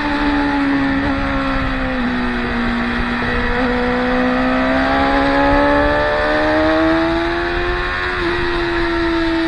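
Sport motorcycle engines running on a race track, one engine note loud and continuous. The pitch dips over the first couple of seconds, then climbs steadily through the middle as the bike pulls away, with a few small jumps in pitch.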